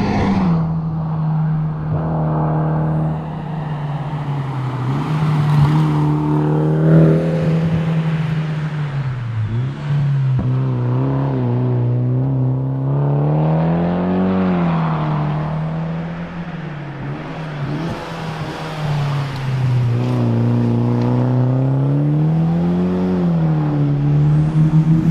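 Mitsubishi Lancer Evolution X's turbocharged 2.0-litre four-cylinder engine driven hard on a rally stage, its note rising and falling over and over as the car accelerates, changes gear and slows for corners.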